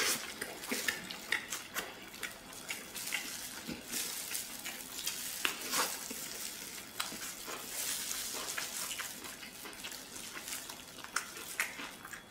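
Wet chewing and lip smacking of someone eating braised tiger-skin pork elbow, gnawing the sticky skin and meat off the bone, with many small sharp clicks and smacks throughout.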